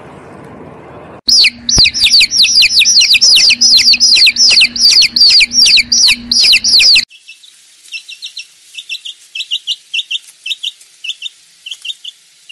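Bird calls. First comes a loud run of high, down-sliding calls, about three a second, for some six seconds. This cuts off abruptly to a quieter, quick series of short high chirps.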